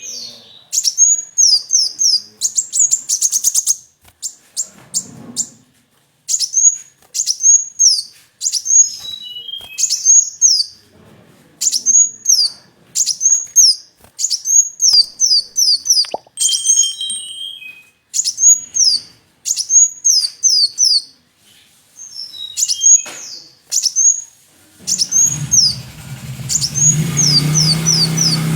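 Kolibri wulung sunbird singing: a long string of short, high, rapid phrases built of sharp down-slurred notes, with a fast trill about three seconds in. A low steady hum comes in near the end.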